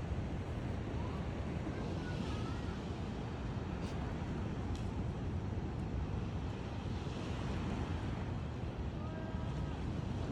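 Steady rushing wind noise on the microphone, outdoors by the sea, with a few faint short chirps about two seconds in and again near the end.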